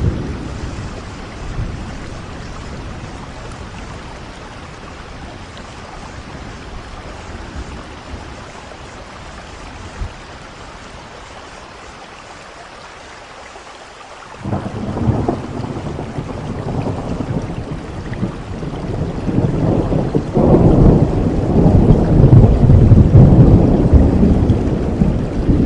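Steady rain falling, with a long roll of thunder that comes in about halfway through and grows louder toward the end.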